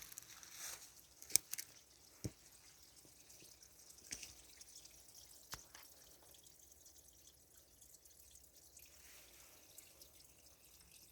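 Corona discharge from 765 kV high-voltage transmission lines: a faint hiss with a few scattered sharp crackles, mostly in the first half.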